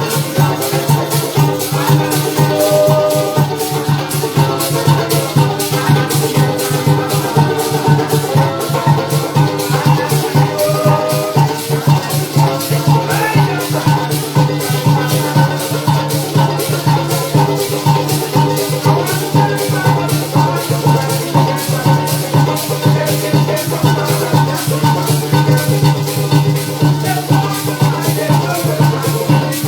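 Live parang music: maracas shaking a fast, even beat over strummed string instruments and a steady deep bass line.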